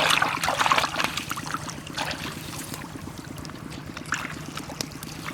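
Water splashing and trickling, loudest in the first second with further splashes about two and four seconds in, over a steady low hum.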